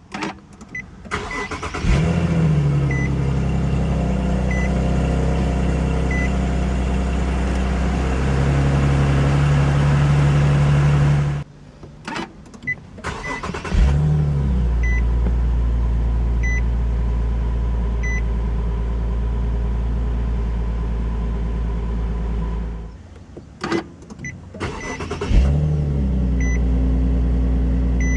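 Nissan 370Z's 3.7-litre V6 started by push button three times: each time it catches with a quick rise in revs, settles to a steady idle, and is switched off after several seconds. A short high beep repeats about every second and a half.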